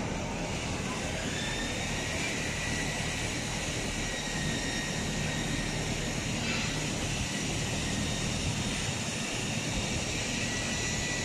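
Donut-forming machine running steadily: a continuous mechanical drone with a faint, steady high whine.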